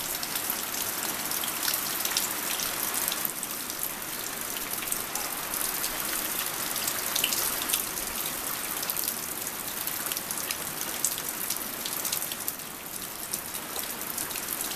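Floodwater rushing and rain pattering: a steady hiss of water dotted with many small ticks of drops.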